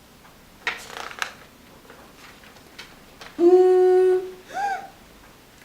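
A person humming one held, level note for under a second, about three and a half seconds in, followed by a short rising-and-falling 'hm'. A few faint clicks and rustles come earlier.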